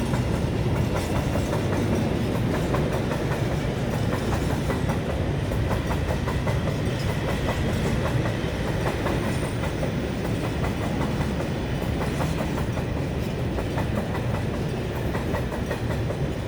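Freight train rolling past, its wheels clicking steadily over the rail joints above a continuous rumble, fading slightly near the end.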